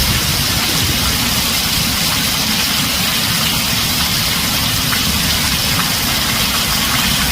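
Heavy rain drumming steadily on a metal roof: an even, dense hiss with a low rumble underneath.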